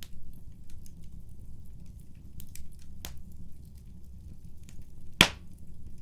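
Wood fire burning in a fireplace: a steady low rumble with scattered small crackles, a sharper pop about three seconds in and one loud pop near the end.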